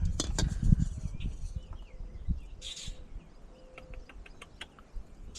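Knocks and clicks of oil filters being handled and compared, busiest and loudest in the first second, with a short rustle near the middle and a few sharp clicks later. Faint bird chirps sound in the background.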